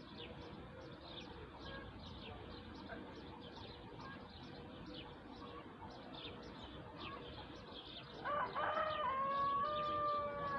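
Small birds chirping over and over, with short, quick, high notes. About eight seconds in, a rooster crows loudly: a broken start, then a long held note that drops in pitch as it ends.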